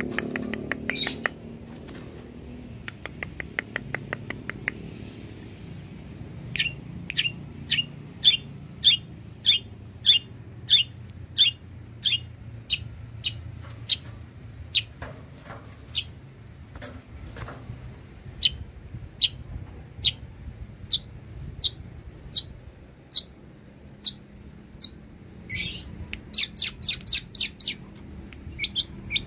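Long-tailed shrike (cendet) singing: a quick chattering rattle, then a long run of sharp repeated notes about two a second, ending in a fast burst of higher notes.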